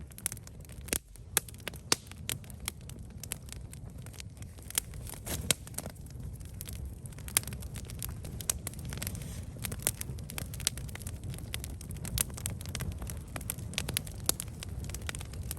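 Wood campfire burning: irregular sharp crackles and pops over a steady low rumble of the flames.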